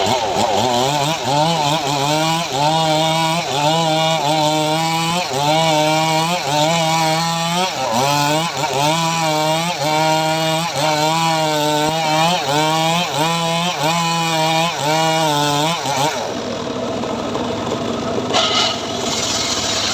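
Homemade srekel chainsaw mill cutting mahogany, its engine running hard under load with a pitch that wavers about once a second. About three-quarters of the way through, the cutting tone drops away and the engine settles to a rougher, lower running.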